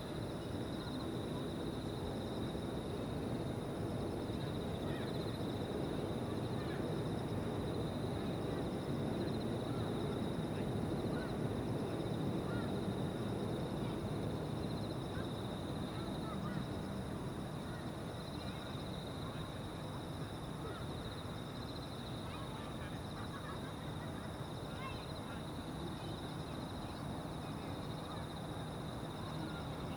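Evening insect chorus trilling steadily and high, over a low rumble of distant aircraft that swells and then eases off about halfway through, with scattered bird calls.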